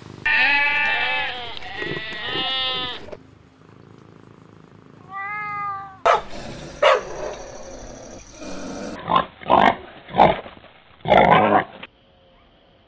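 A fennec fox giving a run of high, wavering whining calls for about three seconds, then one shorter call a couple of seconds later. A Doberman then barks about six times, loud single barks spread over the next six seconds.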